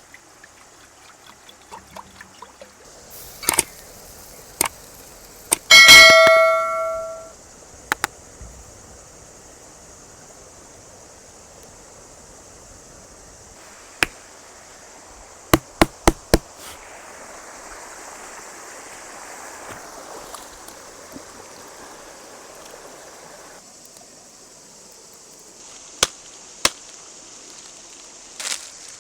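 Outdoor cooking sounds: a metal pot or pan clangs loudly once and rings for about a second, and scattered sharp knocks and clicks of cookware being handled follow, including a quick run of four. A steady high hiss continues underneath.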